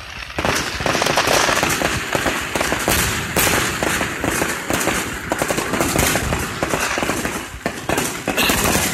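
Fireworks going off in a rapid, dense barrage of bangs and crackling, starting about a third of a second in.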